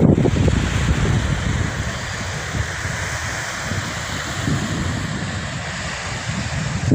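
Wind buffeting a phone microphone over a steady rushing hiss; the gusts ease off after about two seconds.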